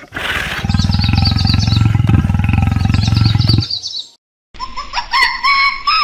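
Lioness roaring: a deep, rumbling, pulsing sound lasting about four seconds, with small birds chirping behind it. After a short silence, a different animal starts a quick series of short, repeated calls near the end.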